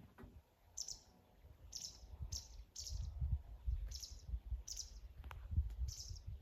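A small bird chirping: seven short, high calls spaced half a second to a second apart, over a low rumble.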